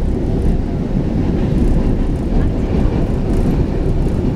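Steady low rumble of an MRT Line 3 train running along the track, heard from inside the passenger car.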